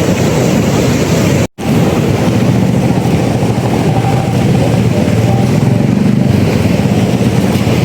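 A vehicle on the move: engine and road noise with heavy rumble, cut by a brief dropout about a second and a half in.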